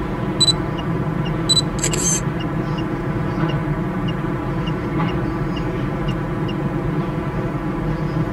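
Long circus train rolling steadily across a steel truss railroad bridge: a continuous drone with light regular ticks, about two a second. Two sharp clicks and a short hiss come in the first two and a half seconds.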